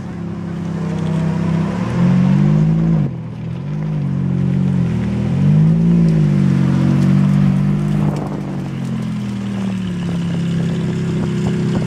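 Ferrari F430's 4.3-litre V8 running at low speed, blipped three times between about two and seven seconds in, each rev rising and falling back, then settling to a steady low-rev burble.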